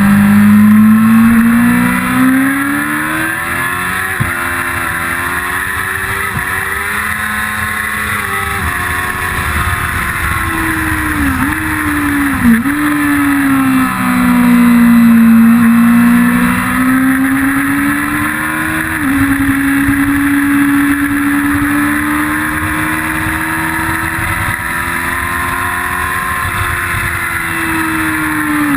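1999 Yamaha R6 (5EB) 600cc inline-four engine at speed on track, its pitch climbing and falling with the throttle. There are quick drops and recoveries in pitch around halfway as it changes down, then it holds a steady high note before dropping again at the end.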